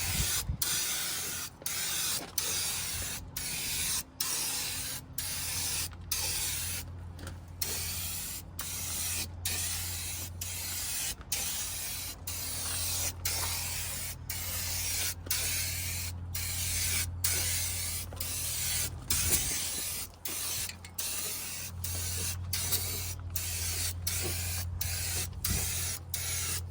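Aerosol spray-paint can with a wide 'turbo' spray tip hissing in a long run of passes about a second each, cut by short breaks where the nozzle is let off. A steady low hum runs underneath.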